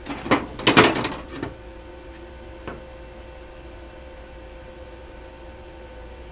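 Welder switched on and humming steadily, not yet welding. Short bursts of handling noise come in the first second and a half, and a single click just before three seconds in.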